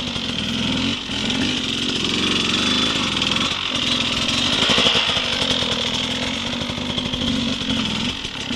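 Dirt bike engine running at low speed, its revs rising and falling with the throttle.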